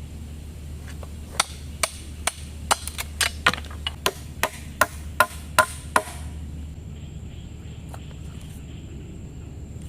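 A blade chopping into wood: a run of about fourteen sharp strikes, roughly three a second, that stops about six seconds in.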